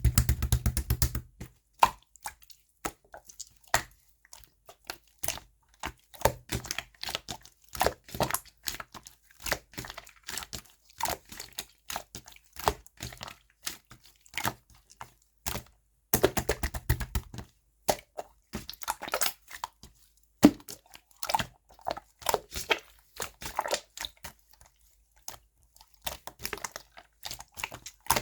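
Yogurt-texture slime being squeezed, pressed and poked by hand, giving a steady stream of irregular sticky clicks and small wet pops, with denser runs of crackling near the start and again about 16 seconds in.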